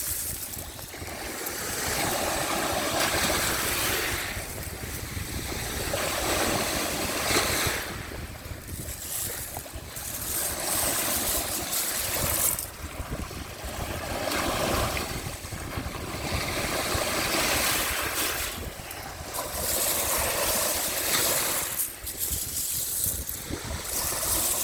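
Sea of Azov waves washing on the shore, the surf swelling and easing every two to three seconds, with wind rumbling on the microphone.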